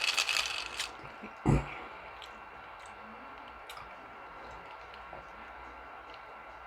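Wet chewing and lip-smacking while eating. A single dull thump comes about a second and a half in, then only a few faint mouth clicks.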